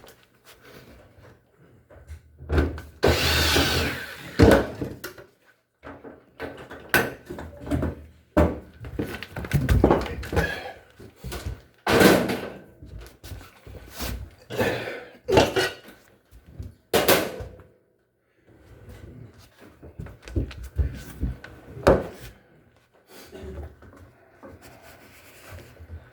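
Knocks, clunks and clatter of tools and parts being handled during hands-on repair work on an LG washing machine, with a brief louder rushing burst about three seconds in.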